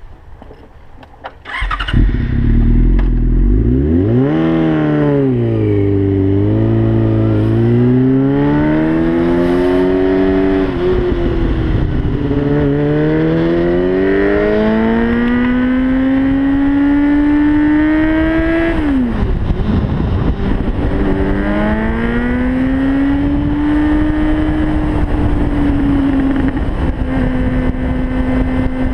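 2004 Yamaha R6's 600 cc inline-four engine comes in loud about two seconds in and idles briefly. It then revs and pulls away, its pitch climbing in long runs as the bike accelerates. The pitch drops sharply about two-thirds through, climbs again and settles to a steady cruise near the end.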